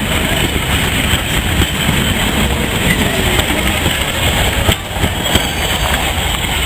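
Heritage railway train running along the track, a steady rumble of wheels and carriages.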